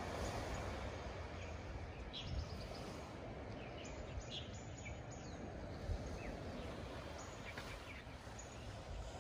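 Outdoor ambience: a steady low background rumble with a few short, high bird chirps scattered through it.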